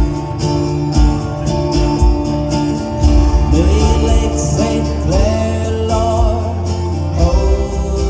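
Live country band playing an instrumental stretch over a steady beat of about one thump a second; about three seconds in the bass gets heavier and a gliding melodic line comes in over it.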